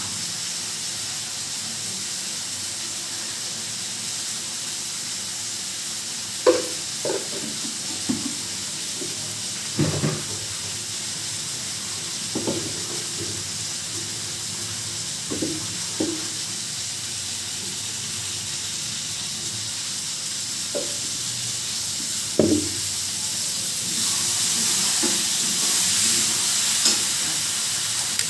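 Potato and aubergine curry sizzling steadily in a pan. A spoon knocks against the pan now and then as it is stirred. The sizzle grows louder near the end.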